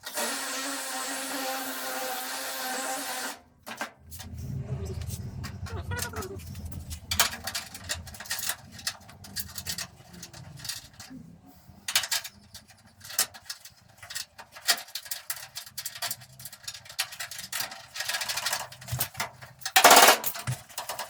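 Workshop metalwork noises. A steady machine tone runs for about three seconds and stops, a low rumble follows, then scattered metal clicks and knocks, with a short loud burst near the end.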